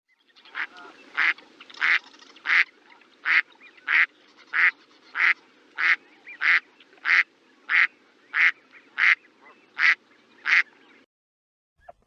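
Duck quacking in a steady series of about sixteen loud, evenly spaced quacks, roughly three every two seconds, stopping about a second before the end.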